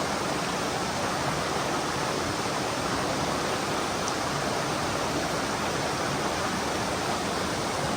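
Steady rush of water from a mountain stream pouring through a rocky gorge.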